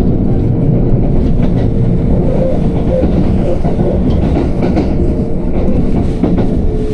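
Passenger train running along the line: a steady rumble with a faint steady whine and a few light wheel clicks.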